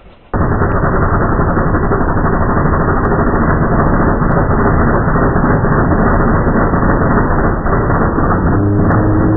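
Air-cooled 1776cc VW Beetle flat-four engine running loud and steady, starting abruptly after a cut, with a dense rushing noise over it; a steadier engine hum stands out near the end.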